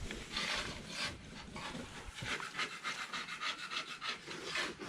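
A dog panting rapidly, a quick even run of breathy puffs.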